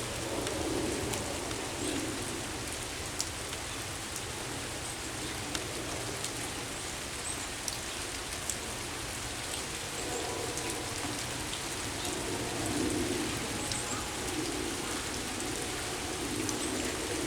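Steady rain falling, with individual drops ticking sharply now and then close to the microphone.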